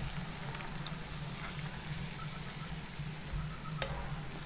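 Raw eggs poured into hot oil and fried onion in a kadhai, frying with a low steady sizzle over a steady low hum, with one sharp clink near the end.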